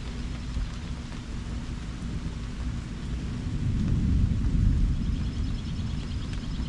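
Thunder rumbling over light rain, the deep rumble swelling about halfway through and staying loud to the end.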